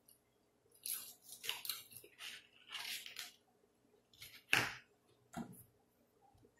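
Close-up chewing and crunching of a breaded chicken strip, a run of crisp crunches for the first few seconds. A single louder, sharp crunch or knock comes about four and a half seconds in, and a smaller one follows a second later.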